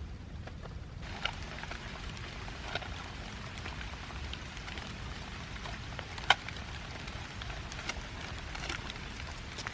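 Rain falling on a surface, starting about a second in: a steady patter with scattered individual drops ticking sharply, one much louder drop about six seconds in. A low steady rumble runs underneath.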